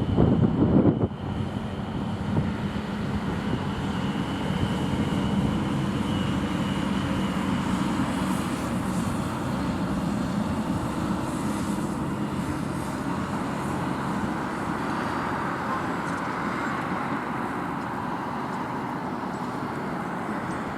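Road traffic with a steady engine hum from passing vehicles, after a second of wind buffeting the microphone at the start.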